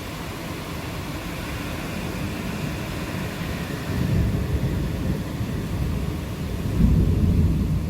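Steady rain with low rolling thunder, the rumble swelling about four seconds in and again, louder, near the end.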